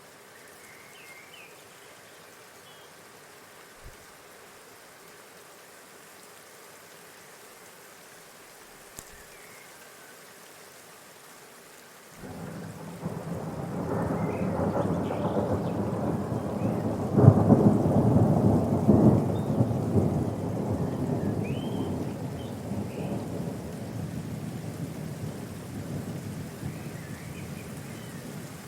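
A long roll of thunder that starts suddenly about twelve seconds in, swells to its loudest a few seconds later and slowly dies away, over a steady hiss. A few faint bird chirps come through.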